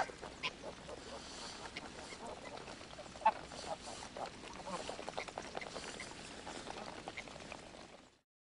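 A flock of greylag geese feeding on snow: soft, scattered calls mixed with many small clicks and crunches from their bills pecking at the snow, with one sharper click about three seconds in. The sound fades out near the end.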